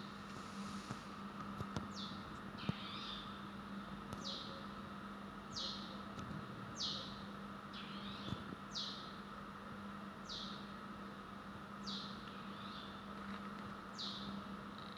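A small bird repeating short downward-sweeping chirps, one every second or two, with a few twittering calls in between, over a steady low hum.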